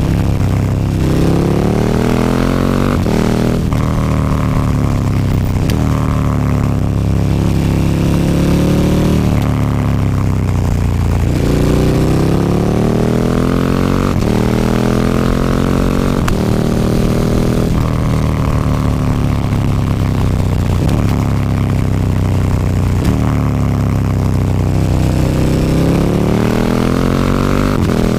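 KTM 1290 Super Duke R's V-twin engine through an Akrapovic slip-on exhaust with the dB killer removed, ridden hard. The engine note climbs in pitch and then drops sharply again and again, every two to three seconds, as the bike accelerates, changes gear and backs off.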